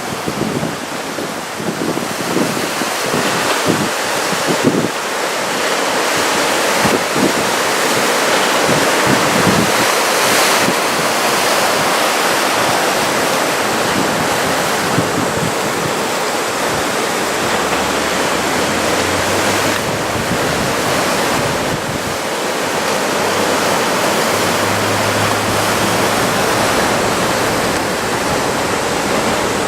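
Ocean surf from a typhoon swell, breaking and washing in a steady, loud roar of water, with wind buffeting the microphone.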